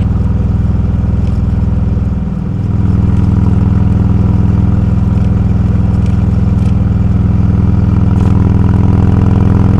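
Motorcycle engine running under way. About two seconds in, the engine pitch falls and the sound briefly dips, then it settles into a steady run again.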